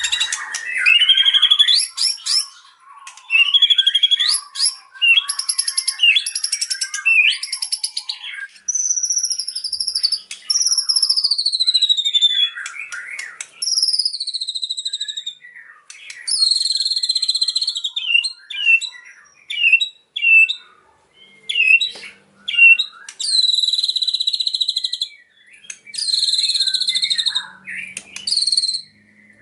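White-rumped shama (murai batu) singing: a varied run of loud whistled phrases, several sliding down in pitch, broken by short pauses, with held buzzy notes in the second half.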